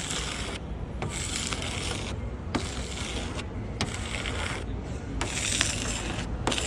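Repeated rasping rub strokes, about one a second, as a hand wipes dust off a car's surface, with a few light clicks. A steady low rumble runs underneath.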